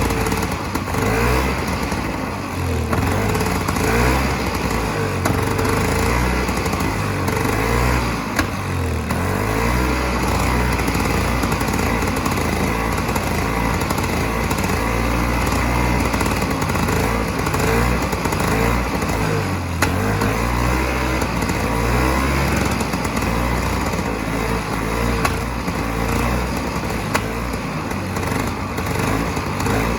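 Vintage 1970 Sno King snowmobile's small two-stroke engine running, with an uneven low beat.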